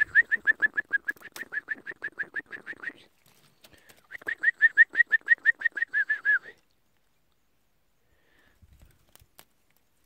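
Nestling birds begging: rapid, evenly repeated short high chirps, about eight a second, in two bouts of about three seconds and two and a half seconds. The chicks are hungry and thirsty from the heat.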